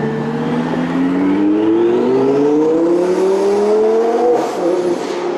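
Twin-turbo Lamborghini engine under hard acceleration, its pitch climbing steadily for about four seconds, then dropping suddenly at an upshift and pulling again.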